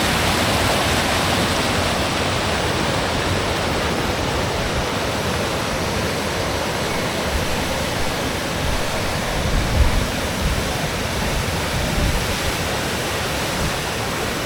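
Waterfall: a steady, loud rush of falling water, with a few brief low bumps about two-thirds of the way in.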